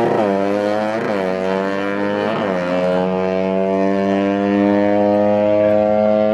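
Drag-racing motorcycle engine at full throttle on the strip. Its note dips sharply and recovers twice in the first few seconds, then holds steady at high revs.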